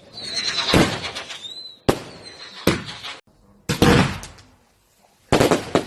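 Fireworks going off: a thin whistle over the first couple of seconds, then a series of about five sharp bangs, roughly a second apart.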